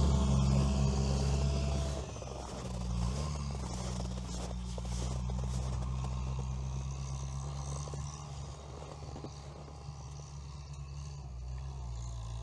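A Veter all-terrain vehicle's engine running hard. It drops back to lower revs about two seconds in and then runs steadily, with scattered crackling over it.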